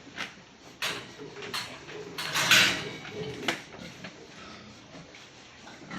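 Pigs in a pen: several sharp knocks and clatters, and one loud harsh cry about two and a half seconds in, the loudest sound.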